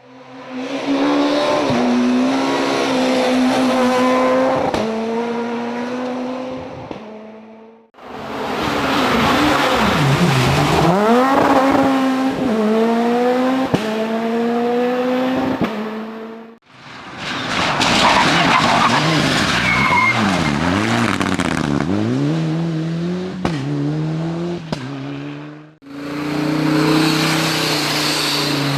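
Race car engines revving hard and dropping pitch at gear changes, with tyres squealing, in four separate passes cut one after another.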